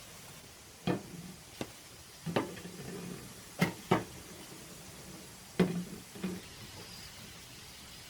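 A series of about seven sharp knocks at irregular intervals, two of them in a quick pair, several followed by a short dull thud.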